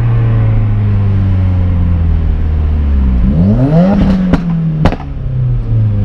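Subaru WRX's turbocharged flat-four engine heard from inside the cabin, its pitch slowly falling as the car coasts, then revving up quickly about three seconds in. Two sharp bangs follow, half a second apart, as the throttle comes off: exhaust pops.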